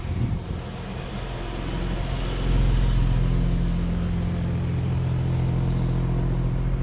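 Acura TL SH-AWD's 3.7-litre J37 V6 running steadily under way, its exhaust louder with the primary catalytic converters removed (RV6 cat-delete J-pipe). The engine note gets louder about two and a half seconds in and holds there.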